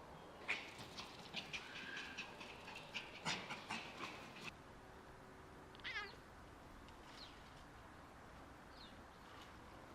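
A cat meowing: a short call falling in pitch about six seconds in, with a fainter one near the end. It comes after a quick run of sharp clicks and taps in the first half.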